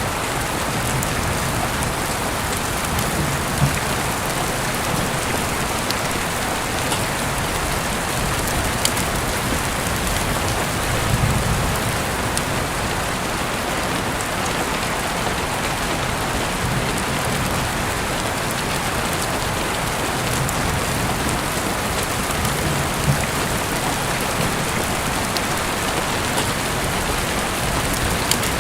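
Steady rain hiss, with a few faint clicks and brief low rumbles at intervals.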